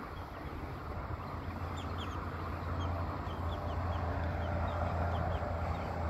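A bird calling in a quick series of short, high chirps, over steady wind rumbling on the microphone.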